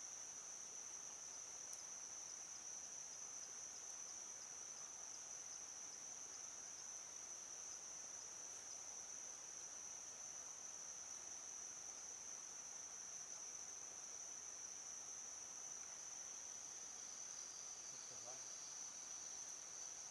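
Steady, high-pitched insect trilling, typical of crickets, carrying on unbroken. A faint rapid ticking sits just beneath it for the first half.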